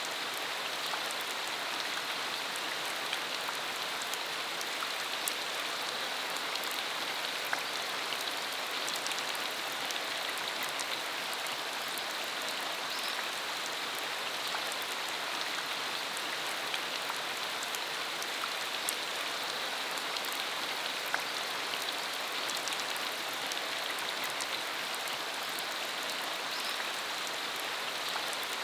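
Steady rain falling on a country dirt road, an even hiss with scattered sharper drop impacts.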